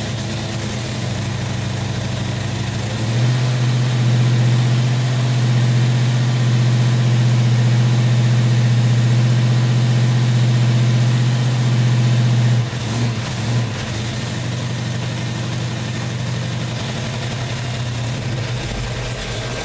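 1967 Chevelle's V8 running on a freshly installed distributor, before the timing is set. About three seconds in it rises to a louder, faster idle, holds for about nine seconds, then drops back with a couple of short blips and idles steadily.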